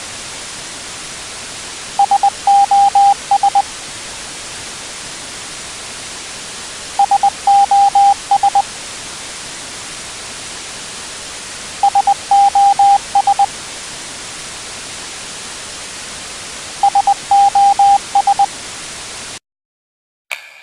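Steady static hiss with four groups of short electronic beeps, each group about half a dozen beeps on one pitch, repeating about every five seconds like a coded radio signal. Near the end the hiss cuts off abruptly and a single sharp knock rings briefly.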